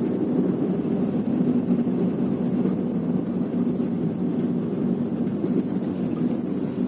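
Nissan Sunny FB15 on the move, heard from inside the car: a steady low rumble of road and engine noise.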